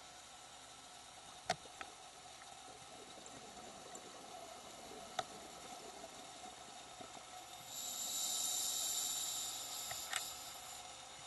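Scuba diver breathing through a regulator underwater: one long hissing inhalation about eight seconds in, over a faint steady background with a few sharp clicks.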